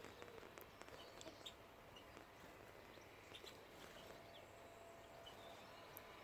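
Near silence with faint, scattered short bird chirps over a quiet outdoor background.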